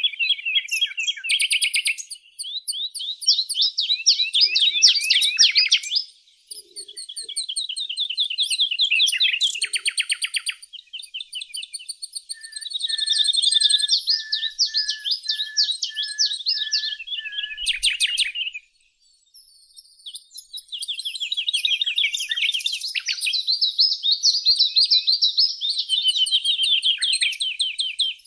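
Songbirds singing in fast, dense trills of high chirps, pausing briefly twice. In the middle, another bird repeats a single lower note about twice a second.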